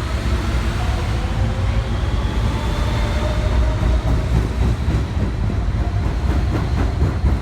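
Siemens-equipped R160B subway train accelerating, its traction motors whining upward in pitch over a heavy rumble. From about five seconds in, the wheels start clicking over rail joints, faster as it gathers speed.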